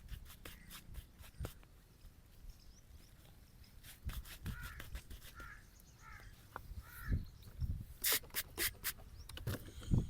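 Straight razor scraping over the skin in short strokes, with a quick run of sharper, louder scrapes about eight seconds in.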